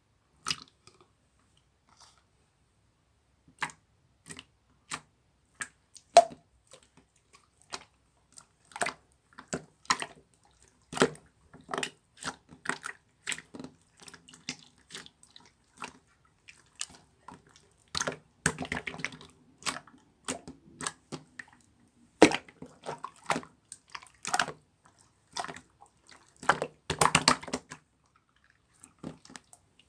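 Pink pearl-marbled slime being squeezed and poked by hand, giving irregular wet clicks, pops and crackling squishes, sparse at first and denser in runs later on.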